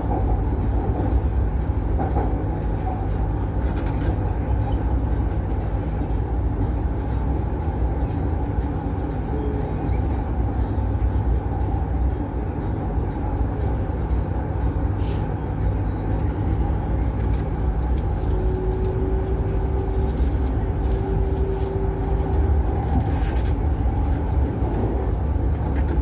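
Inside a metro train carriage while the train runs between stations: a steady low rumble of wheels and running gear. A faint steady whine rises out of it for a few seconds about two-thirds of the way through, and a few light clicks sound over it.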